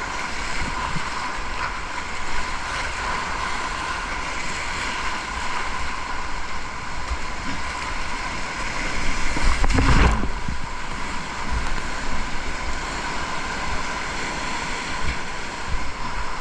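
Rushing whitewater of a river rapid at high water, a steady loud rush, with wind buffeting the microphone and one heavier low buffet about ten seconds in.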